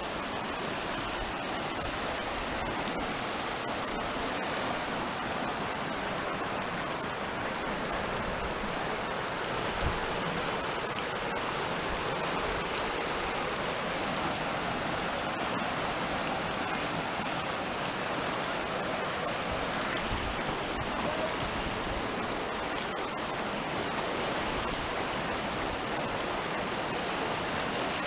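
Steady rushing of water flowing in a stream, with a brief thump about ten seconds in.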